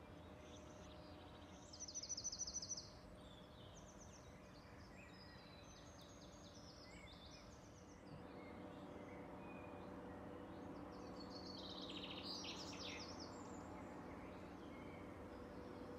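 Small wild birds singing, with a loud rapid trill about two seconds in and another burst of chirps and trills around twelve seconds, over a faint steady hum.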